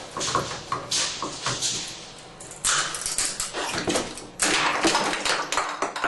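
A stuck tub and shower valve handle being forced and broken off: irregular scraping, knocking and cracking. The loudest spells come about two-thirds of a second apart in two stretches, from near the middle and again past the halfway point.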